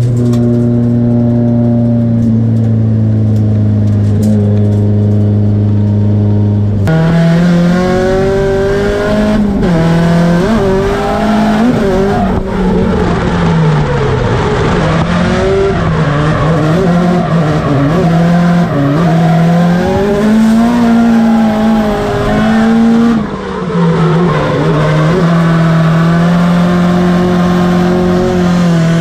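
Drift car's engine heard from inside the cabin, held at a steady pitch, then from about seven seconds in the revs rise and fall over and over with the throttle through the drift, with a loud hiss of tyre noise over it.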